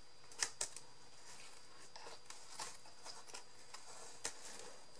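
A few light taps and clicks with faint rustling as small paper craft pieces are handled and turned over on a table; the sharpest taps come about half a second in and again near four seconds in.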